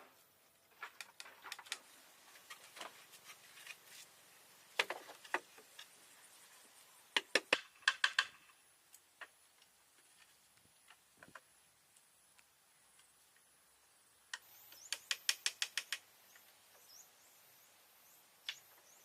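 Sharp taps and knocks, scattered singly and in short quick runs of about five or six a second, the loudest runs about seven seconds in and again near fifteen seconds.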